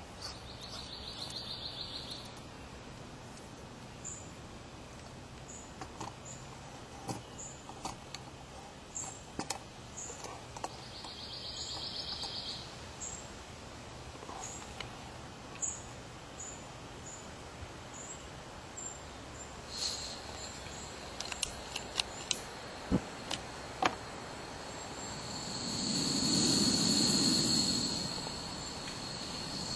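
Outdoor ambience: a small bird chirping over and over, and two buzzing insect calls of about two seconds each, one at the start and one near the middle. Later come a few sharp clicks, and a low rushing swell near the end that is the loudest sound.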